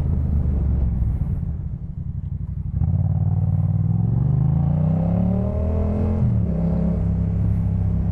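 2018 Yamaha MT-07's parallel-twin engine on a Jeskap K4 full exhaust, under way. The throttle eases off about a second in, then the revs climb for about three seconds. The pitch drops with an upshift around six seconds in, and the engine then runs steadily.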